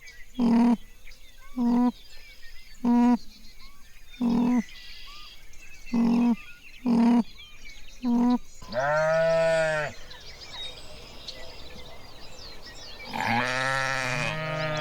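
Farm animal bleating: a run of seven short, evenly spaced calls about a second apart, then two long, wavering bleats, one a little past the middle and one near the end.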